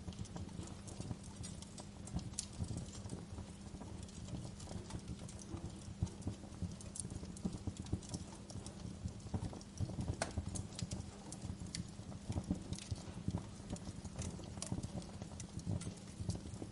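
Wood fire burning in a fireplace, with irregular sharp crackles and pops over a low steady rumble of flames.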